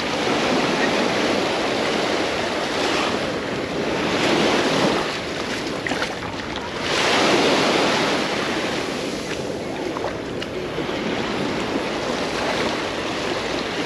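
Small sea waves breaking and washing up the sand of a beach, a steady wash that swells louder twice.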